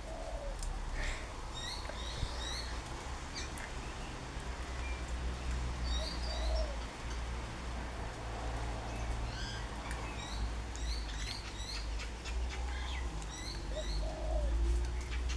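A chorus of wild birds: many short, high chirps and twitters scattered throughout, with a few brief lower calls, over a steady low rumble.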